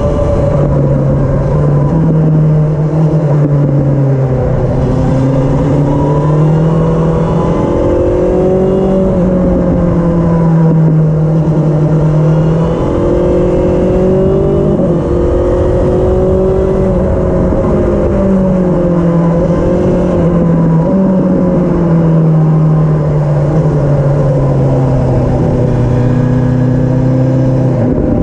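2020 BMW S1000XR's inline-four engine through a Cobra SPX BlackSeries aftermarket exhaust, riding along. The engine note rises and falls again and again with throttle and gear changes.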